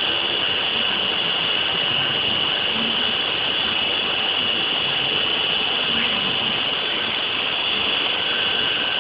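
Wadkin 5-axis CNC trimming machine running: a steady high-pitched whine over a constant rushing machine noise.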